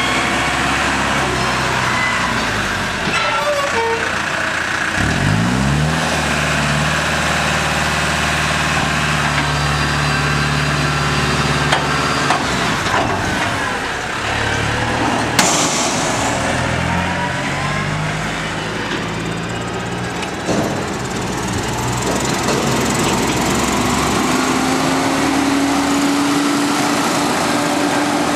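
Diesel tractor engines running under work, one picking up speed about five seconds in and then running steadily. A single sharp click comes about halfway, and an engine note climbs slowly near the end.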